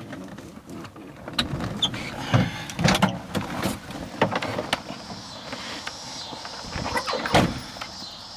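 A string of knocks and clunks from handling the Mercedes W116's doors and hood latch, thickest a couple of seconds in, with one loud thump near the end.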